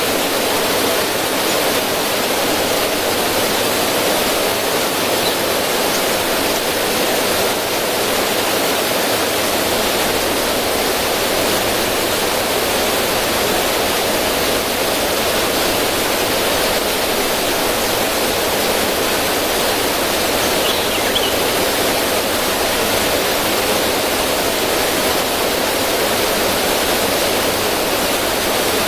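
River water running and splashing over rocks in a small cascade, a steady rushing that does not change.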